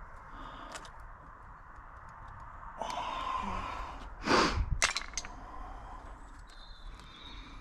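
A stuck plastic retaining clip being worked at by hand during a car teardown: scraping and handling noise, then a loud sharp crack a little over four seconds in, followed by two quick clicks.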